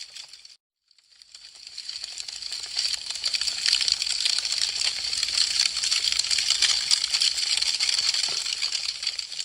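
Wood fire crackling with a dense run of small pops and snaps. It fades out to silence just after the start, fades back in over a couple of seconds, then tapers off near the end.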